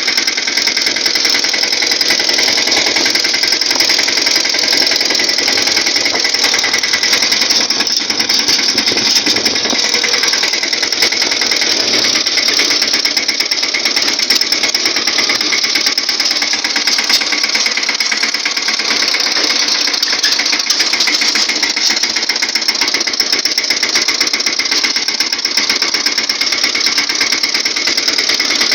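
Tractor diesel engine running steadily with a fast, even rattling knock.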